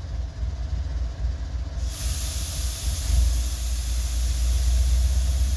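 Freight train's air brakes releasing: a sudden hiss of venting air starts about two seconds in and keeps on steadily, over a low rumble.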